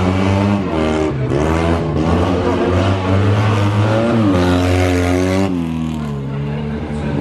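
Fiat 126p rally car's two-cylinder engine revving hard, its pitch climbing and dropping back several times, then sliding lower near the end.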